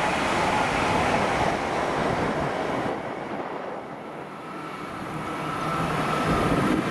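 Train passing at speed on the main line, a steady rushing rail noise that eases off about halfway through and then builds up again.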